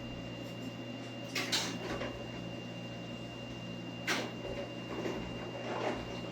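Commercial refrigerator running with a steady low hum and a thin high whine, with a few short knocks and rustles of handling about one and a half, four and six seconds in.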